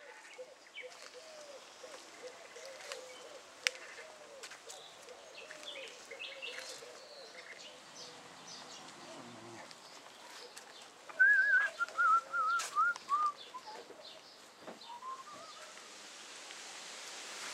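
Birds singing and calling: a run of low, repeated notes in the first few seconds, then a louder series of quavering, falling notes about eleven seconds in. A few sharp clicks come in between.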